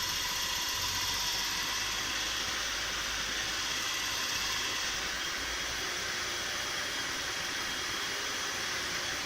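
BMW E46 engine running at a steady speed, with a steady hiss and faint mechanical sound, while it is being checked for a knock in the engine.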